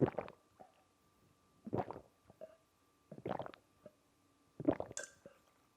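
A man making short throat sounds, about one every second and a half, four in all, the last trailing into a hiss: his reaction to the burn of hot sauce.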